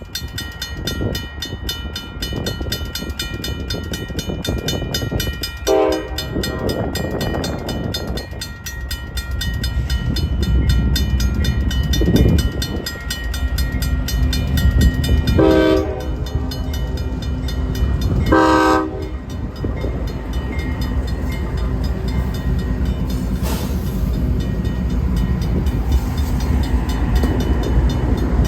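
Diesel freight locomotive sounding its air horn in three short blasts, one about six seconds in and two close together later, over the steady rumble of the train, which grows louder toward the middle.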